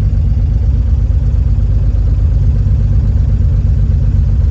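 1953 Chevrolet 3600 truck's straight-six engine running steadily at idle, with an even, unbroken tone.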